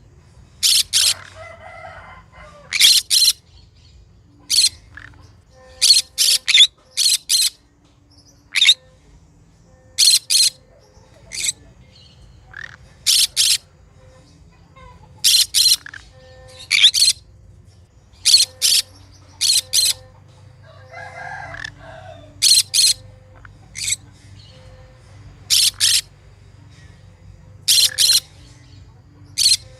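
Green conure giving short, shrill calls, often two or three in quick succession, repeated every second or two with brief pauses between.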